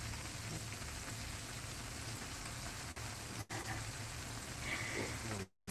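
Breaded chicken deep-frying in hot oil in a pan: a steady crackling sizzle. It cuts out briefly near the end.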